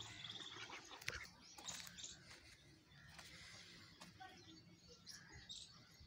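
Faint, scattered bird calls and chirps, with one sharp click about a second in.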